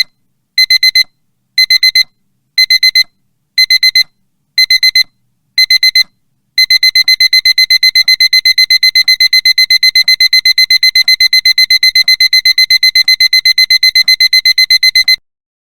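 Digital alarm clock beeping: short bursts of four quick high beeps about once a second, then from about six seconds in a continuous run of rapid beeps that cuts off near the end.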